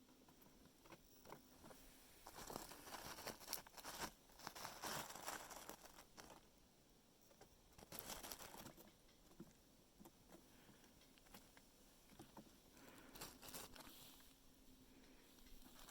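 Faint, irregular rustling and crackling of red squirrels handling peanuts, in scattered bursts.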